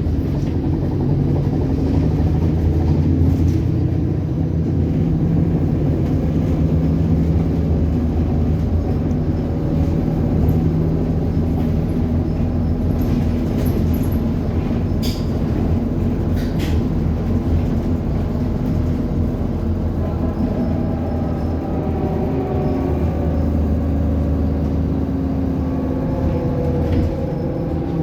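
ADL Enviro 400 double-decker bus running with a steady engine drone, with a few sharp clicks about halfway through.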